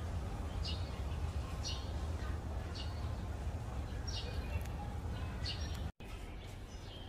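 Small birds chirping, short high-pitched chirps about once a second over a steady low background rumble, with a momentary dropout about six seconds in.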